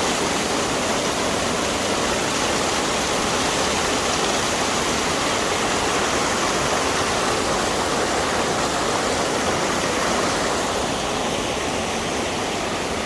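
A waterfall's falling water making a loud, steady rush, a little quieter from about eleven seconds in.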